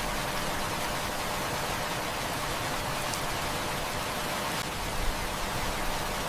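Heavy rain falling steadily as a dense, even hiss, with a few faint sharp ticks about halfway through.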